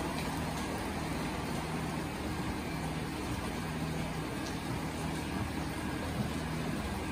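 Steady hiss of rain, with a vehicle engine running as a low steady hum underneath.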